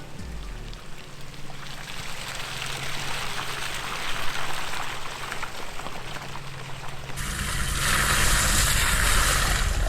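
Off-road vehicle driving through water and mud on a wet trail: a steady water rush and splash over a low engine hum, becoming suddenly much louder about seven seconds in.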